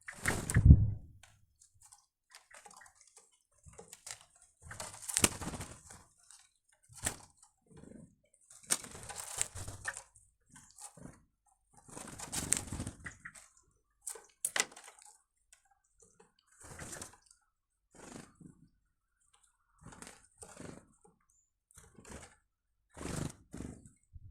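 Birds close to the microphone, moving and feeding: irregular short rustles and taps, the loudest a thump just under a second in.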